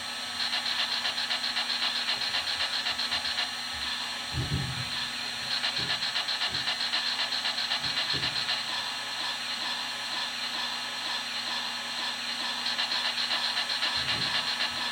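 Steady steam hiss with a fast pulsing, the idle steam sounds of an MTH Proto-Sound 3.0 model steam locomotive playing through its onboard speaker, with a few short low thuds scattered through it.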